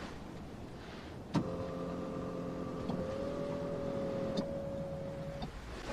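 A small electric motor whining steadily for about four seconds, starting with a click and stopping with a click about five seconds in.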